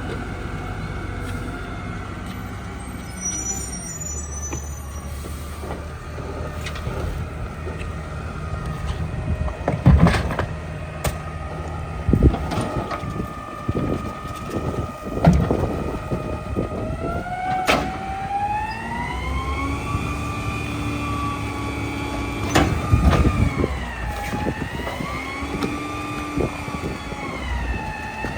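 Garbage truck's rear-loader packer cycling: diesel engine running under load with a whine from the hydraulics that glides up and down in pitch. Several sharp bangs and cracks come from trash being crushed in the hopper.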